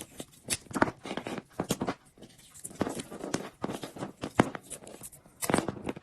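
Electrical tape being pulled off the roll and wound around a wire joint: irregular ripping, crackling rasps and handling noises.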